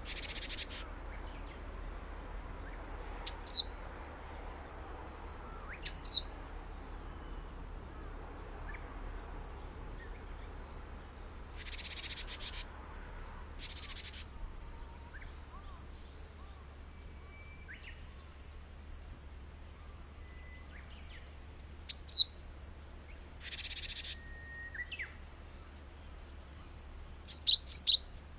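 Small songbird, most likely a Japanese tit at its nest box, giving sharp high calls that drop in pitch, in quick pairs four times. Between them come a few harsh buzzy calls about a second long and faint distant whistles.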